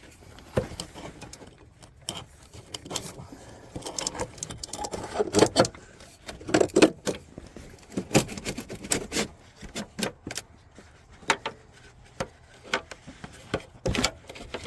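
Irregular metallic clinks, taps and knocks of tools and parts being handled while a fuel filter is fitted, with a louder cluster about halfway through and a sharp knock near the end.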